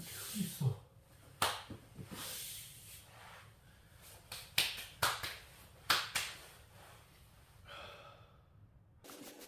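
A series of sharp clicks and knocks with rustling in between, like objects being handled.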